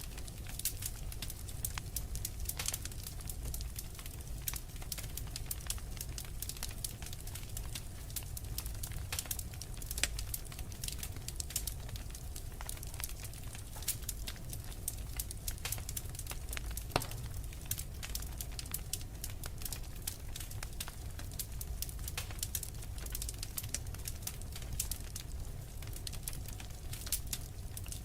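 Wood fire crackling steadily, with frequent small irregular snaps and an occasional louder pop over a low, even rumble of the flames.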